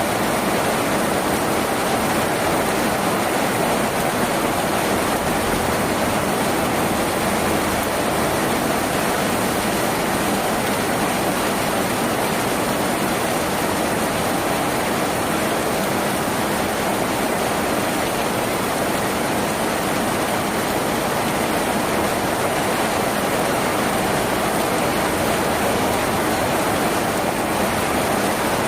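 Rain falling steadily on a tin roof, an even, unbroken hiss with no single drops standing out.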